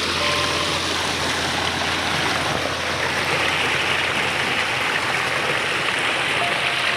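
Brook water running with a steady rushing sound.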